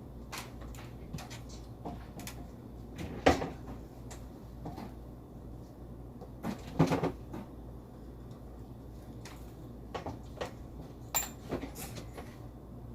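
Scattered light knocks and clicks, the sharpest about three seconds in and a short cluster near seven seconds, with a few more near the end.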